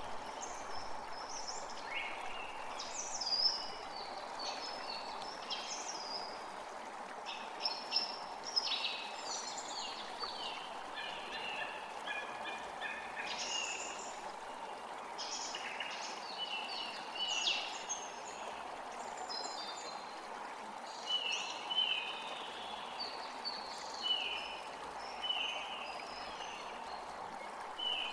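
Several songbirds calling and singing in quick, overlapping chirps and short falling notes over a steady rushing background.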